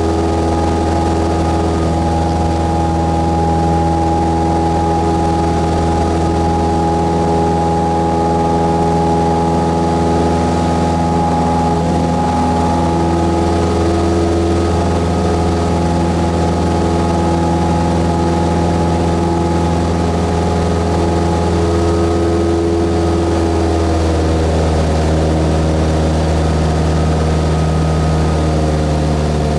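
Cessna 172S's Lycoming four-cylinder engine and propeller running with a loud, steady drone, the pitch shifting slightly about two-thirds of the way through as the engine speed changes.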